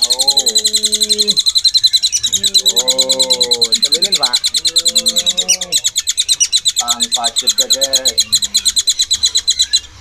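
Caged birds chirping in a fast, unbroken high trill. Lower voice-like sounds come and go underneath.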